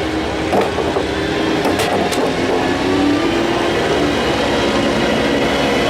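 An engine running at a steady idle, its pitch drifting slightly up and down, with a few sharp clicks about two seconds in.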